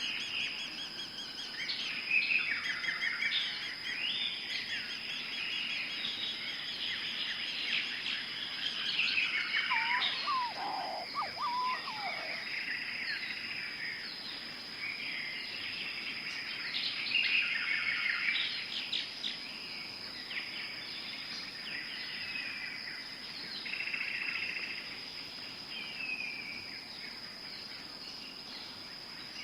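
Tropical forest ambience: many birds chirping and trilling over one another, over a steady high-pitched insect drone. A lower, sliding call stands out about ten seconds in.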